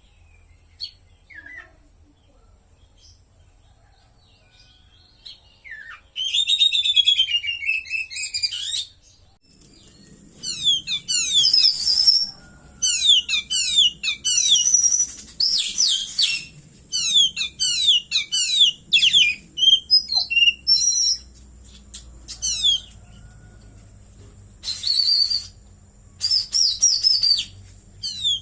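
Oriental magpie-robin (kacer) singing loudly in bouts of rapid, quickly repeated high down-slurred whistled notes with short pauses between bouts, its song filled with cililin phrases. The singing starts about six seconds in, after a few faint chirps.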